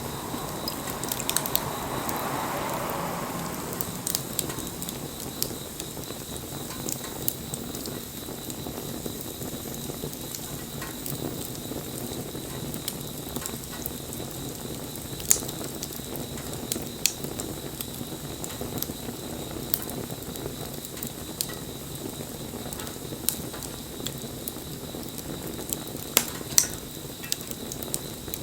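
Wood fire burning, with a steady hiss and frequent crackles and sharp pops from the burning wood; a few pops stand out louder, about halfway through and near the end.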